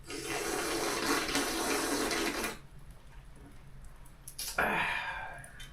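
Water running in a steady rush for about two and a half seconds, stopping abruptly, then a shorter second rush of water near the end.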